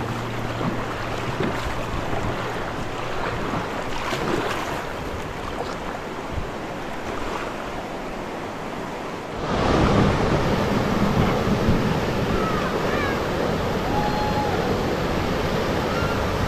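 River water rushing and splashing around a raft. About nine and a half seconds in it suddenly gets louder and fuller.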